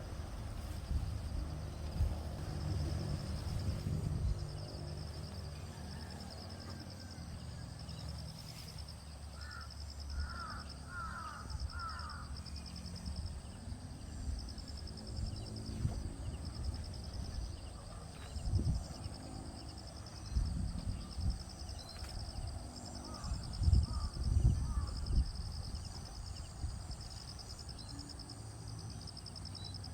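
Wind gusting against the microphone in uneven low rumbles, over a steady high pulsing trill. A bird gives a short run of harsh, caw-like calls about ten seconds in and a few fainter ones later.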